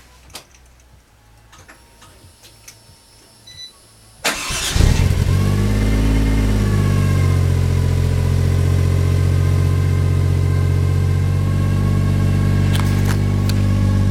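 A turbocharged 1JZ-GTE VVTi straight-six starts about four seconds in and catches at once. It runs up briefly, then settles into a steady idle through a Tanabe 80 mm exhaust whose flanges are fitted without gaskets. A few faint clicks come before the start.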